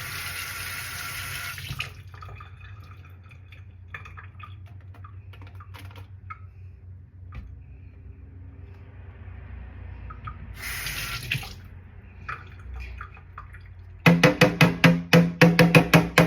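Bathroom tap running in two short spells, wetting a hairbrush, with small handling clicks in between. Near the end comes a quick run of loud strokes or knocks, about eight a second.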